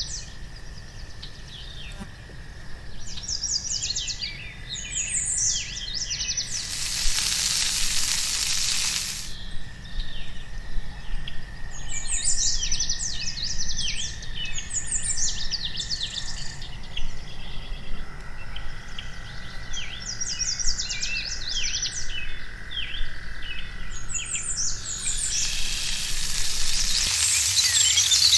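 Birds singing in repeated phrases of quick, high chirps every few seconds. Two loud bursts of sizzling hiss come in: one about seven seconds in lasting a couple of seconds, and another starting near the end. A low rumble runs underneath.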